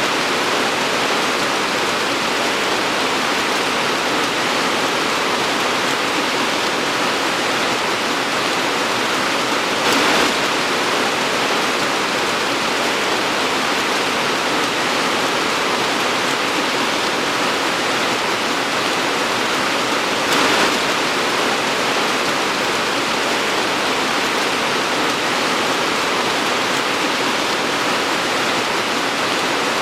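Torrential rain pouring down in a dense, steady hiss, swelling briefly louder about ten seconds in and again about twenty seconds in.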